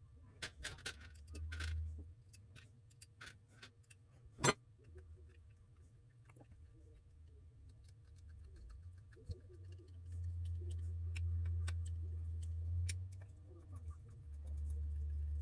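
Scattered light clicks and clinks, denser in the first few seconds, with one sharper click about four and a half seconds in, over a low hum that swells up in the second half.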